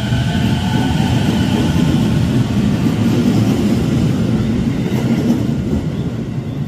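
Keio Line electric train running along the track at the station with a steady heavy rumble. A high whine fades over the first couple of seconds, and the rumble dies away near the end.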